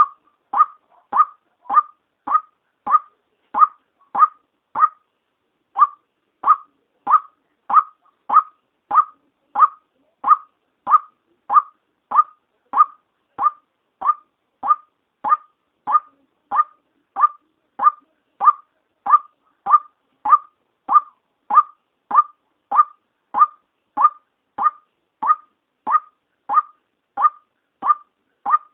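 White-breasted waterhen female call: short, sharp notes repeated steadily at about three every two seconds, with one brief pause about five seconds in. This is the call used as a lure to draw waterhens in.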